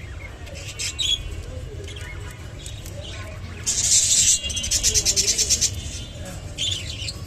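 Budgerigar chirping and chattering, with a loud harsh call about four seconds in followed by a fast run of short pulses, over a steady low hum.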